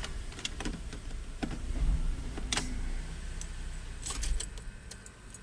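Scattered light clicks and small metallic rattles, like keys or small metal parts being handled in the car, with a couple of brief low thumps around two and four seconds in, over a steady low hum.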